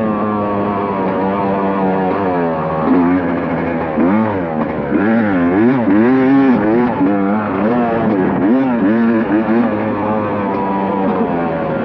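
KTM dirt bike engine revving up and down over and over as the rider works the throttle across rough terrain, its pitch rising and falling about once a second.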